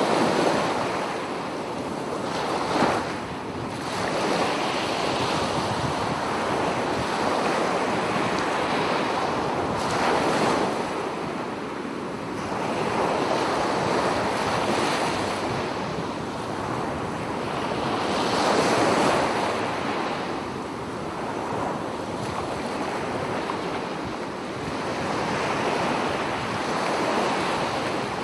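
Ocean waves surging and washing in, a continuous rush that swells and fades every few seconds.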